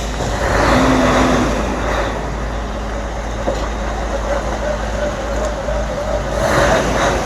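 Truck engine running steadily under load, swelling louder twice: about half a second in, and again near the end.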